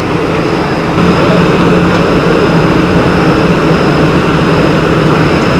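Motorcycle engines running, a loud steady drone with a constant hum and no revving.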